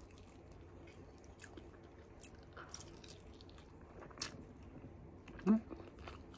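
Faint mouth sounds of a person eating rice and fried egg by hand: soft, scattered chewing and biting clicks. A brief vocal sound rises about five and a half seconds in.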